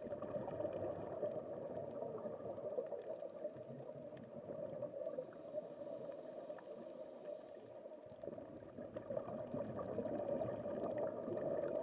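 Steady low background noise with no distinct events, a faint, even rushing hiss.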